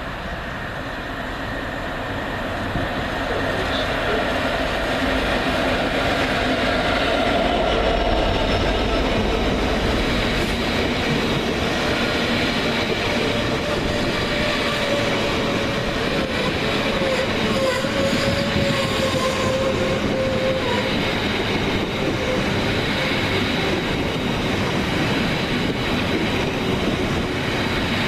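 Class 170 Turbostar diesel multiple unit heard from on board while running, its engine and wheel noise growing louder over the first several seconds and then holding steady.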